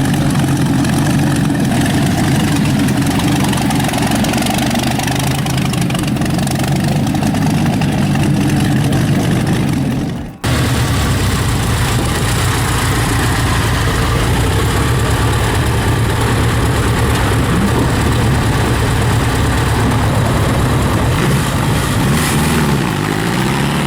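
Bentley Packard's V12 engine running loud and being blipped, its pitch rising and falling with the revs. The sound cuts out sharply for a moment about ten seconds in, then resumes.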